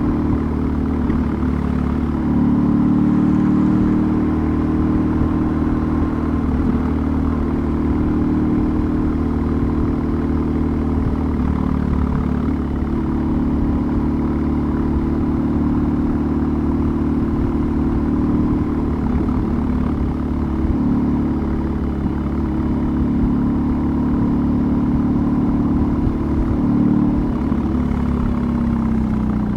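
BMW R18's 1802 cc boxer twin with a custom exhaust running steadily under way, its pitch rising and easing a little with throttle changes and falling near the end as the bike slows.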